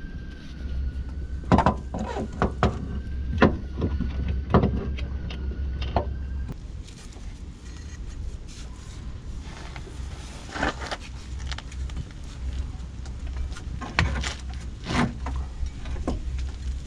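Irregular knocks and clinks of tools and parts being handled during repair work, over a low hum with a faint wavering whine that stops about six and a half seconds in.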